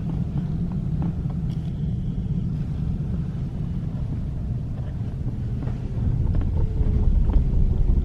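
Steady tyre and road rumble heard inside the rear cabin of a Tesla Model S, with a few faint scattered knocks that the owner takes for a rattle from the left rear axle. The rumble grows louder about six seconds in.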